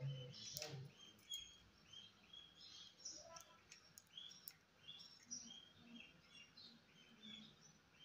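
Faint, quick bird chirps repeating several times a second, with a brief knock about half a second in.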